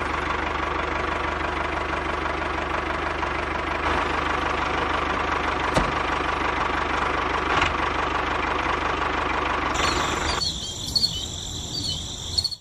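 Small electric motor of a homemade mini tractor running steadily with a buzzing rattle. About ten seconds in the sound switches abruptly to a thin, high whine.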